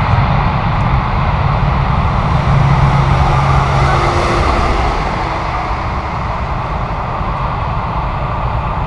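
Jet airliner engines as a loud, steady rumbling roar, easing off slightly about halfway through.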